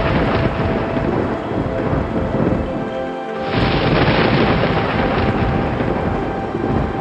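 Thunder rumbling over steady rain. The rumble eases about three seconds in, then a new roll of thunder breaks in sharply half a second later.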